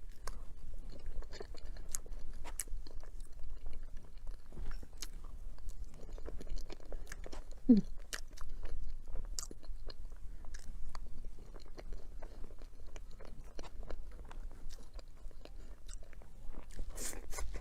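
A person biting and chewing dessert close to the microphone: many small crunches and mouth clicks, with a brief falling squeak about eight seconds in.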